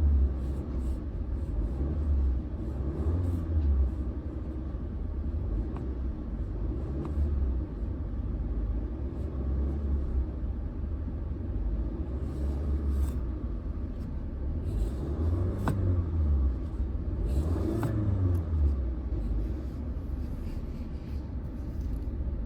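Car engine running with a heavy low rumble, its revs rising and falling several times as the accelerator is pumped.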